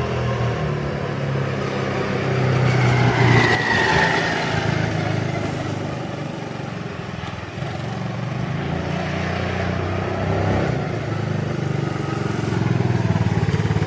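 Engine of a 250cc Kandi Cyclone three-wheel trike running as it is driven, the engine note rising and falling; it is loudest around three to four seconds in.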